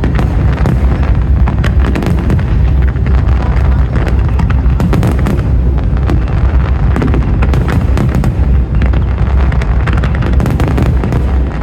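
Fireworks display: a dense, unbroken barrage of overlapping firework bursts, with many sharp cracks over a deep, continuous boom.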